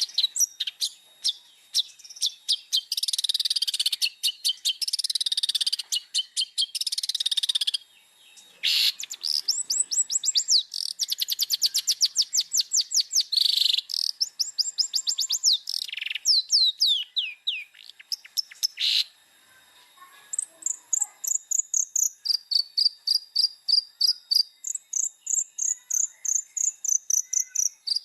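Long-tailed shrike (cendet) singing a loud, fast, varied song. It mixes harsh, buzzy chattering passages, long runs of rapid repeated high notes, quick falling whistles and, in the second half, strings of short notes that step up and down in pitch.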